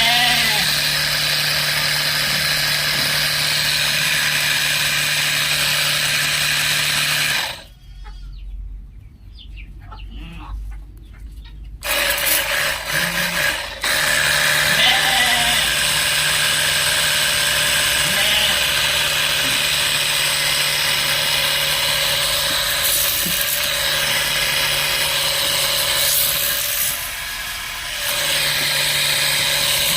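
Battery-powered electric pump sprayer running steadily with a constant whine. About a quarter of the way in it cuts out for around four seconds, then runs again.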